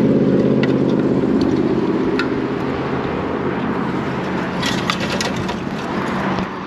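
Small two-stroke moped engine running at a steady note, slowly getting quieter.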